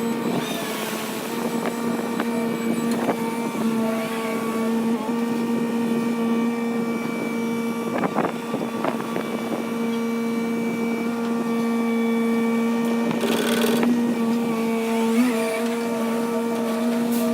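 Diesel engine of a Hyundai HW60 wheeled excavator running at a steady speed, with a few short knocks about 8 to 9 seconds in and a brief hiss near the end.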